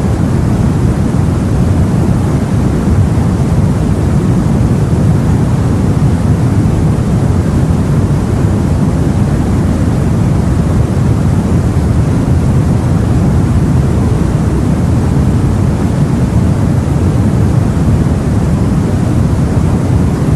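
Sea noise: a steady, low rushing of water with no separate wave breaks or pauses.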